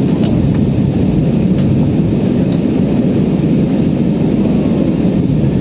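Steady aeroplane cabin noise: a loud, even drone of engines and airflow heard from inside the passenger cabin.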